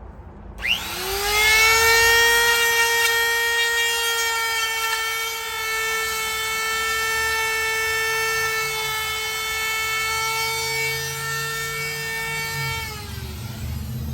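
Handheld wood router switched on, spinning up to a high steady whine while cutting a shallow recess in wood for a door latch, then switched off and winding down near the end.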